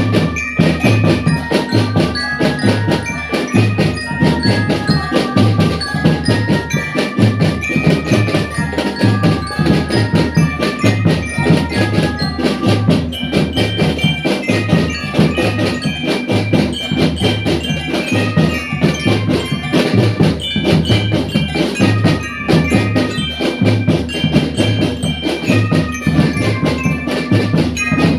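A marching drum band playing: snare and bass drums keep a steady beat while bell-like mallet percussion carries the melody.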